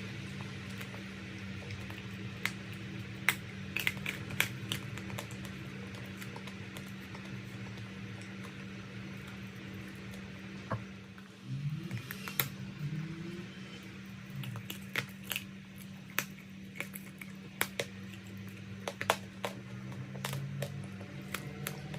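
Chalk crunching: irregular sharp crackles and snaps, bunched in small clusters, over a steady low hum.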